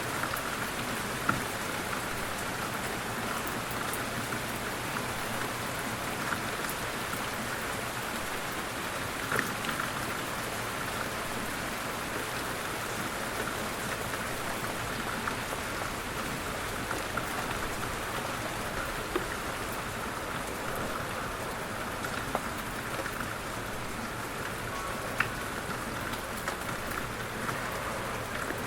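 Light rain falling steadily, an even patter with now and then a louder single drop striking close by.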